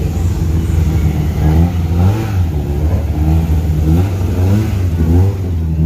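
Rally car engines running loudly at close range: a deep steady idle with the revs rising and falling again and again as the throttle is blipped.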